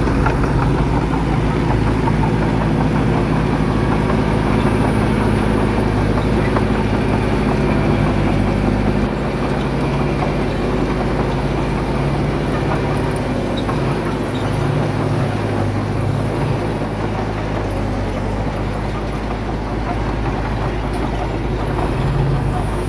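Heavy diesel engine of earthmoving equipment running steadily, dipping a little about nine seconds in.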